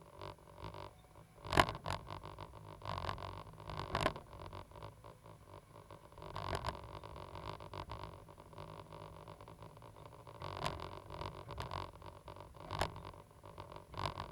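Cat 320GC excavator at work: a steady low engine hum under irregular clanks, knocks and scrapes, with a sharp knock about one and a half seconds in and more at about four seconds and near the end.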